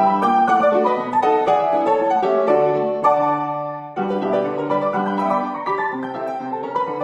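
Instrumental piano music in a classical style, with quick runs of notes. The playing thins out briefly just before four seconds in, then carries on.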